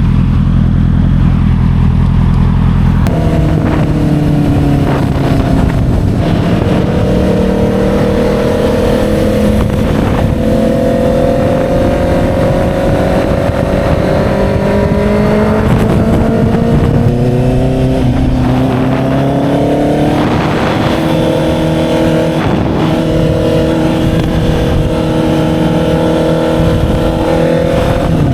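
Motorcycle engine running steadily while riding at speed, with wind rushing past. The engine's pitch drifts slowly up and down, shifts a few seconds in, and rises again near the end.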